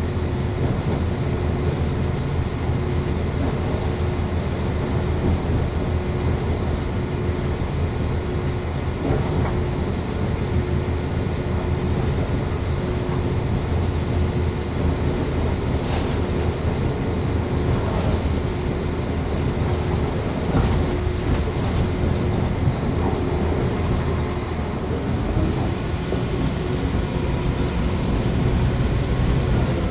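Train running at steady speed, heard from inside the carriage: a continuous rumble of wheels on the rails with a constant hum, and a few faint clicks in the middle.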